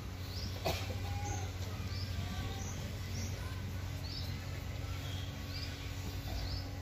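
Small birds chirping, short high notes every half second or so, over a steady low hum, with a single sharp knock near the start.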